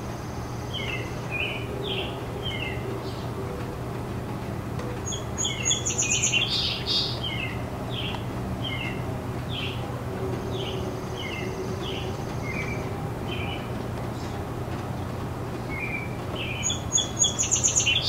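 Garden birds chirping and singing, short repeated chirps throughout, with a loud rapid trill about five seconds in and again near the end, over a steady low background hum.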